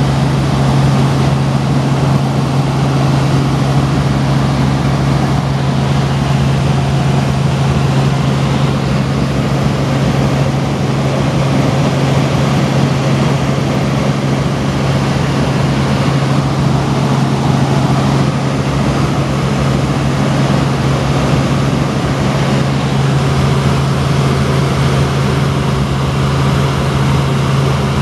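Tour helicopter in flight, heard from inside the cabin: its engine and rotor make a steady loud drone with a strong low hum.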